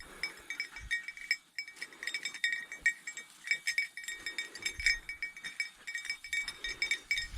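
A small bell on a bird dog's collar jingling in quick, irregular strikes as the dog moves about.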